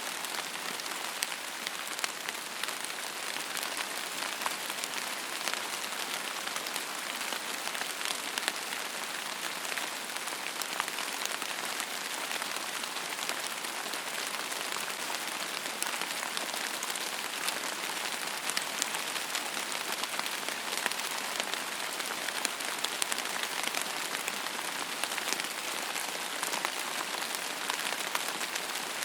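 Steady rain falling on a surface, an even hiss dotted with many small, sharp drop ticks.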